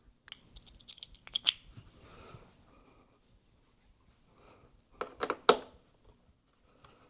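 Sharp clicks and taps of small tools and parts being handled inside an opened iMac, in two clusters: a run of clicks in the first second and a half, then a louder group around five seconds in.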